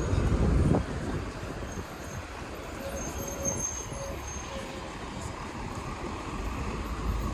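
Road traffic by a busy street: a vehicle's low rumble passes close in the first second, then a steady hum of traffic, with a few faint short beeps about halfway through.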